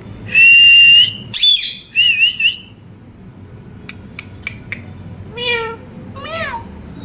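Pet parrot whistling and calling: a loud held whistle, a quick squawk and a warbling whistle in the first few seconds, then a few sharp clicks, and two falling calls near the end.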